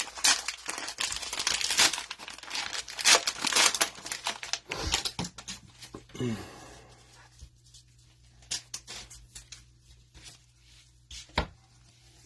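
Cellophane wrapper of a trading-card cello pack being torn open and crinkled: dense crackling tearing for about the first five seconds, then sparser crinkles and clicks as the cards are handled.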